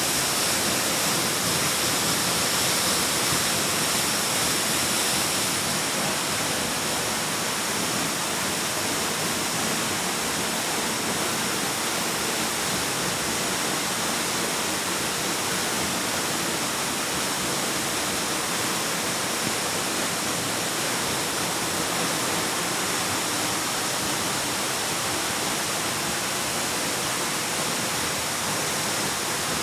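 Waterfall with water rushing steadily, an even unbroken roar of noise across all pitches. It is slightly brighter and hissier for the first few seconds.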